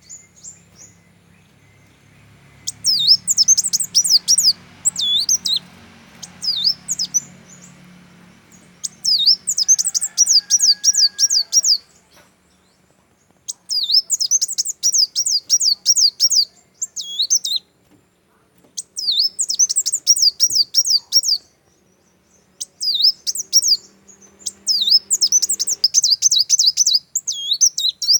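A songbird singing in loud phrases of rapid, high, downward-sweeping notes, each phrase lasting two to four seconds, with short pauses between them.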